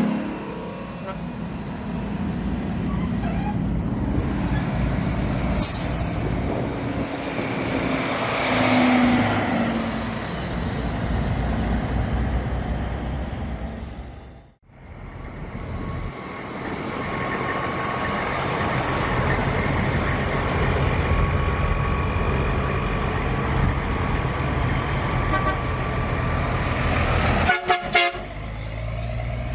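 Truck engines running steadily, with a short run of horn toots near the end.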